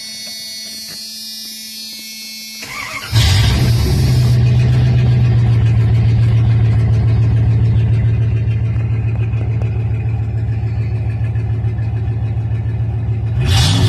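1997 Dodge Ram SS/T's 5.9-litre Magnum V8 cranking briefly and catching about three seconds in, then running at a steady idle.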